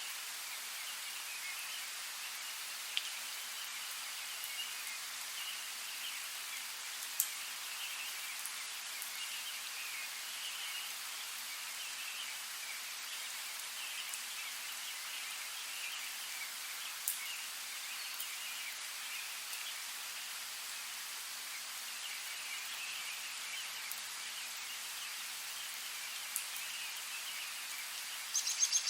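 Steady rain hissing through a forest canopy while small birds twitter continuously. A few sharp, close drip taps, and a brief rapid chatter near the end.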